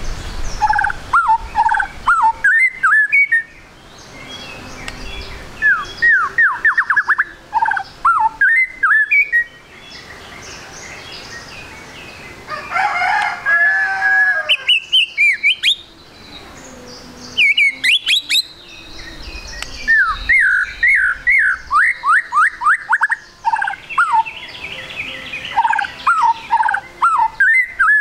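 White-rumped shama (murai batu) singing hard in phrases of quick, sharp whistled notes that sweep downward, each phrase a few seconds long with short pauses between. A little before halfway comes a harsher, rasping phrase.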